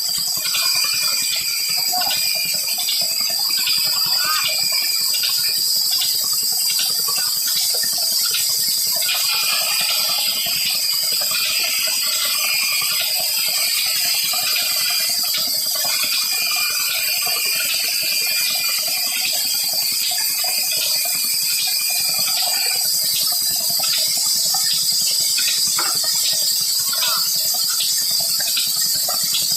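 Old Petter diesel engine and the wood-cutting machine it drives running steadily, with rapid regular mechanical ticking over a high hiss; a thin high whine comes in for stretches in the middle.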